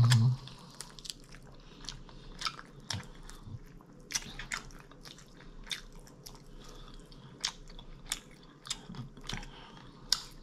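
Close-up chewing and biting of air-fried chicken wingettes: irregular sharp mouth clicks.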